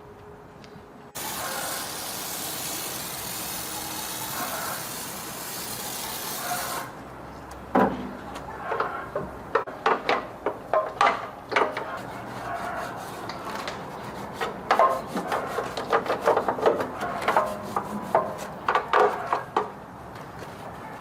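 Workshop repair noises: a steady hiss for about five and a half seconds that cuts off suddenly, then a long run of irregular knocks, clinks and scraping from hand tools being worked.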